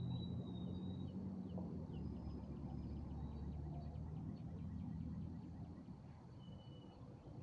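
Birds calling outdoors: thin, high whistled notes and a rapid trill of ticks lasting a few seconds, over a low steady rumble that fades near the end.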